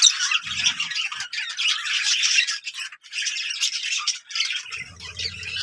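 Several birds squawking and chattering continuously in a dense, overlapping racket. A low hum comes in briefly about half a second in and again near the end.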